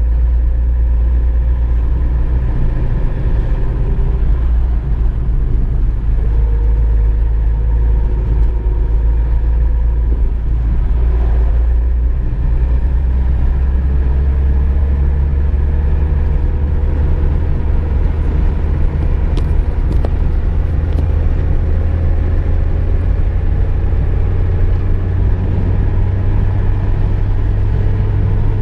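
A car driving at a steady pace: continuous low engine and road rumble. The low drone shifts slightly higher about twelve seconds in.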